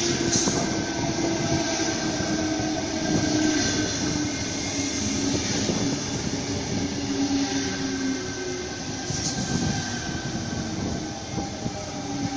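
Sydney Trains double-deck electric suburban train rolling slowly alongside the platform: a continuous rumble of wheels on rail with thin, steady whines from the motors and wheels.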